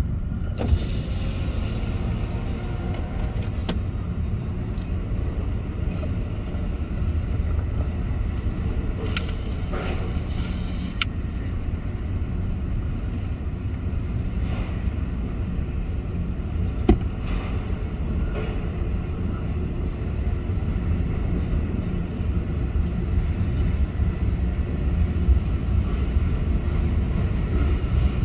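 Double-stack container freight train rolling past: a steady low rumble of wheels on the rails, with a few sharp clanks and clicks from the cars.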